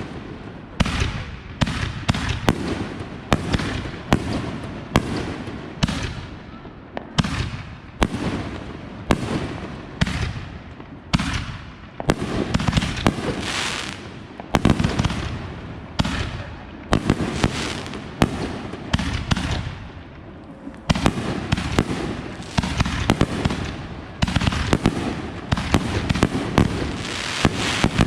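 Consumer fireworks going off in quick succession: sharp bangs about one or two a second, with crackle between them, thickening into a dense run of crackling through the middle.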